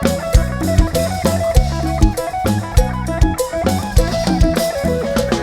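Live band playing an instrumental passage: a drum kit keeps a steady, driving beat over electric bass and guitar, with held keyboard-like tones above.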